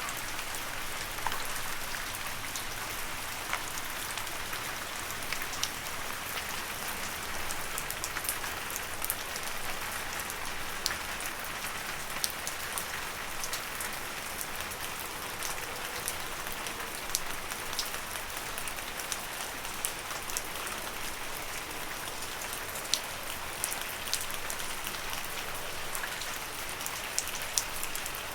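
Steady rain falling on leaves, a constant hiss with many sharp drop taps scattered through it.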